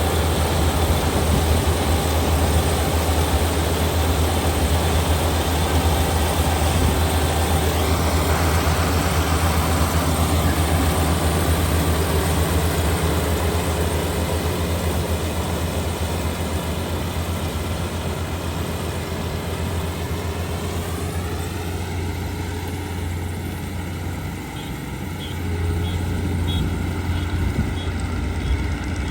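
Kubota ER572 72-horsepower combine harvester running with a steady low engine hum and machinery noise. About two-thirds of the way through, a whine rises in pitch and then holds steady.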